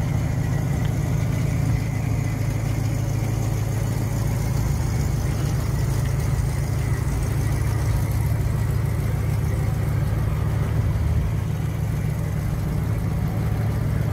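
A car engine idling with a low, steady sound.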